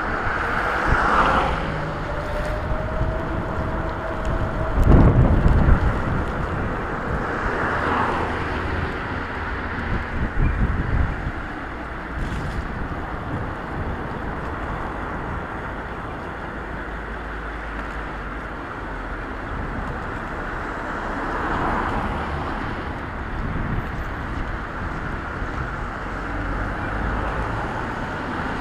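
Steady wind buffeting on a helmet or bike-mounted camera microphone, mixed with tyre noise on a wet road while riding an e-bike. A faint rising whine comes through in the first few seconds, and there is a louder low rumble about five seconds in.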